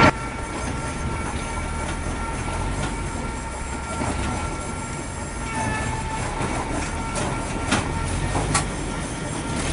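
Mobile log-debarking machine running: a steady mechanical drone with a high whine, and two sharp knocks about a second apart near the end.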